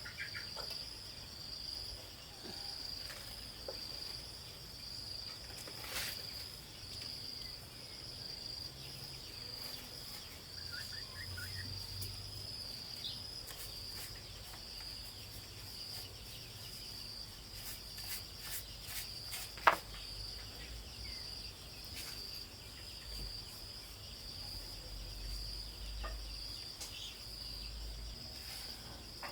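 Steady high-pitched chirring of insects, with a slight pulse. A few sharp clicks cut through it, the loudest about twenty seconds in.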